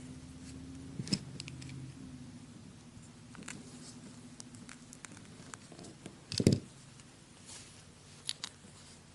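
Small clicks and light scraping of disassembled folding-knife parts being handled and wiped clean, with one louder knock about six and a half seconds in as a part is set down on a hard surface. A low steady hum sounds under it and fades out over the first two thirds.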